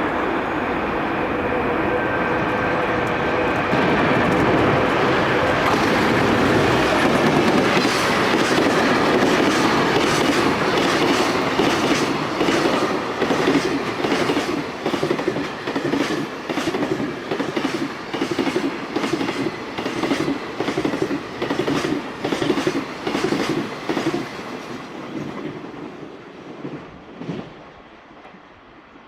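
Electric freight train passing: the locomotive's traction motors whine in steady tones at first, then a long string of wagons clatters over rail joints in a regular clickety-clack, fading away near the end.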